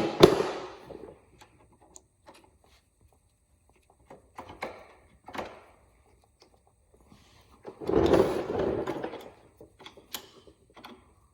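Metal parts being handled during a motorcycle wheel teardown: a sharp double knock at the start, a few short clatters, and a longer loud rattling clatter about eight seconds in, with scattered clicks.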